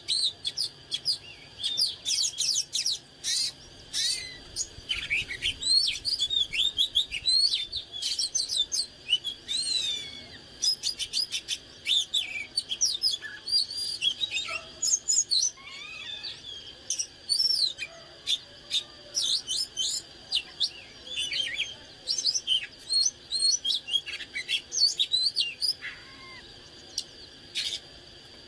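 Oriental magpie-robin singing a rapid, varied song of clear whistles, sweeps and chirps, phrases following one another almost without a break. A faint steady high tone hums underneath.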